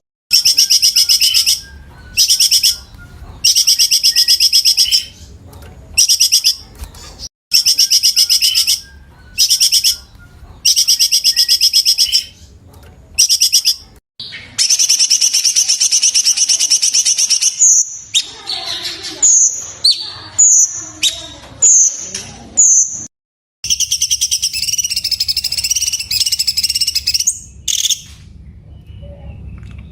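Cucak cungkok song: loud, rapid high trills in short repeated bursts with brief pauses between them. Two longer trills come in the middle and near the end, with a string of short, sharp high notes between them.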